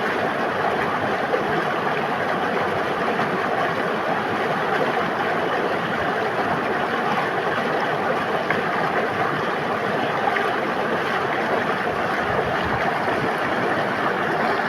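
River water flowing and babbling in a steady, dense rush.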